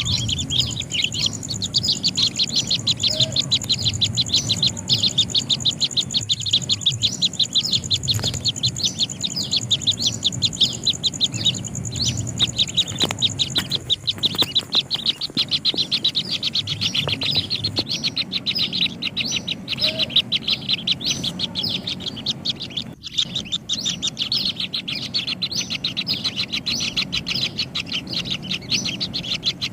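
Kingfisher nestlings in the nest burrow calling, a rapid, unbroken run of many high chirps a second.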